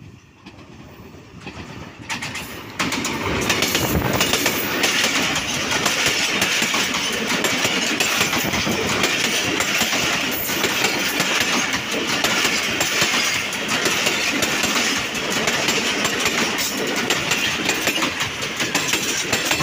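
Diesel-hauled express passenger train, led by a ZCU-20 locomotive, passing close by. The rumble swells for a few seconds and jumps suddenly about three seconds in as the locomotive reaches the crossing, then the coaches' wheels clatter steadily over the rails.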